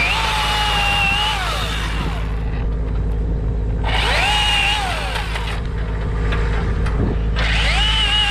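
Two-stroke chainsaw revving up and down in bursts, easing back off throttle twice, about two seconds in and again after five seconds. A steady low engine hum runs underneath.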